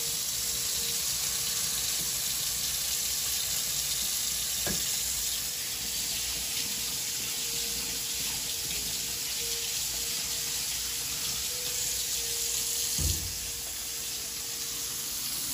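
Floured fish frying in hot oil in a pan, a steady sizzle, under a faint steady hum. A low thump sounds about 13 seconds in.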